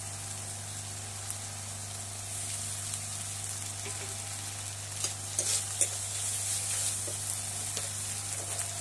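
Onion, ginger-garlic and cumin-pepper paste sizzling in hot oil in an aluminium kadai, stirred with a metal spatula that scrapes against the pan, with a few sharper scrapes about five to six seconds in.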